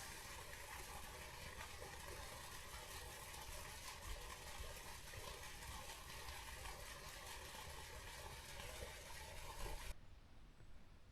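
Faint, steady road and engine noise of a car driving, a low rumble under a steady hum, dropping away abruptly about ten seconds in.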